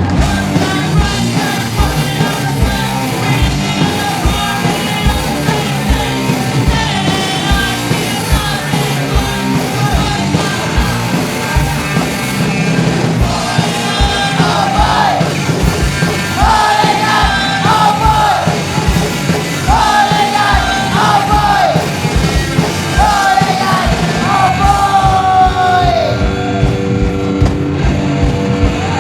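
Punk rock band playing live and loud, with distorted guitars, bass and a fast steady drum beat. In the second half a held, bending melodic line rises above the band.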